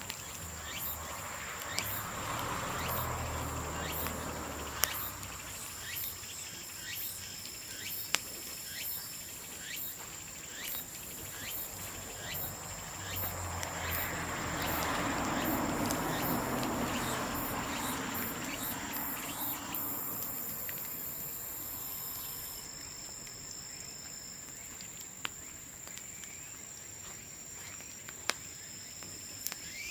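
Bamboo bonfire crackling, with scattered sharp clicks and a few louder pops. A steady high insect trill runs underneath.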